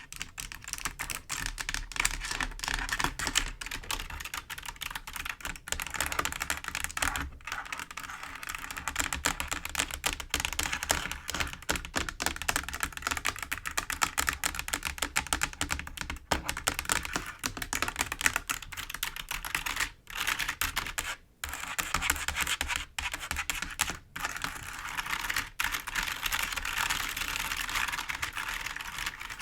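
Fingers tapping and scratching rapidly on a computer keyboard: a dense, clicky patter of keys, with a few short pauses near two-thirds of the way through.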